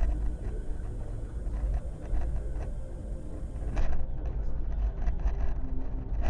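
Car's steady low road and engine rumble picked up by a dashcam inside the vehicle, with small rattles throughout and one sharp knock a little under four seconds in.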